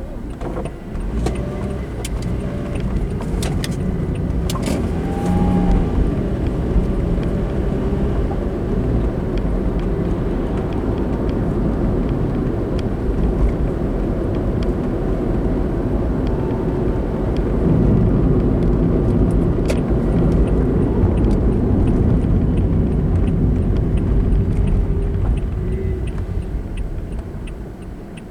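A car driving on a road: a steady low drone of tyre noise and engine, with a few sharp clicks in the first five seconds and the drone swelling slightly a little past halfway.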